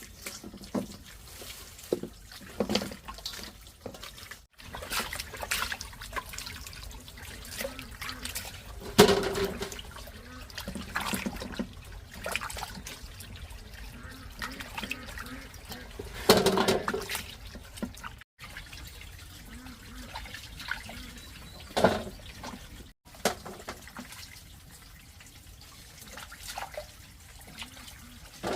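Water splashing and trickling with irregular knocks and clatter, cut off for an instant three times.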